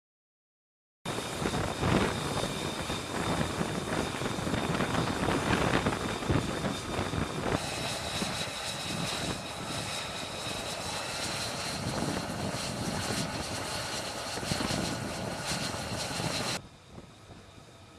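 Jet engine running: a loud, steady rushing noise with a high whine, which edges up in pitch a few seconds in. It starts abruptly after a second of silence and drops away sharply near the end.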